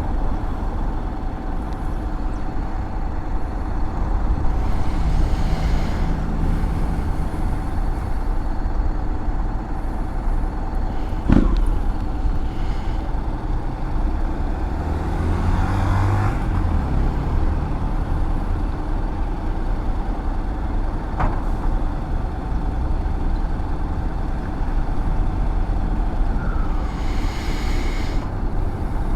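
Honda X-ADV 750's parallel-twin engine running while riding, under steady wind and road noise. A sharp knock comes about eleven seconds in and a fainter one later.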